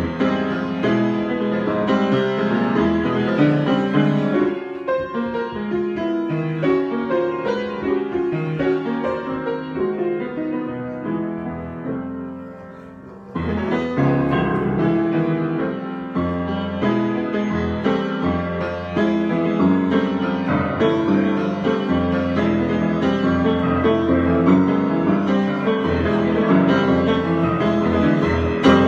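Piano playing an improvised piece with dense, ringing chords; the playing softens about ten seconds in and comes back strongly with a sudden loud chord about thirteen seconds in.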